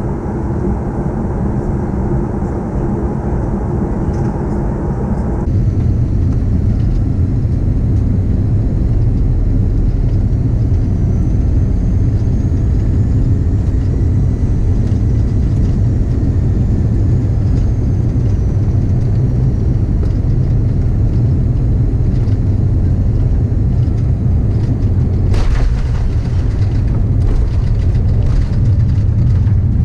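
Airbus A340-300 cabin noise on the descent: a steady, deep rumble of airflow and engines with a faint whine gliding in pitch. The sound changes about five seconds in, and near the end a sharp knock is followed by scattered clicks and rattles.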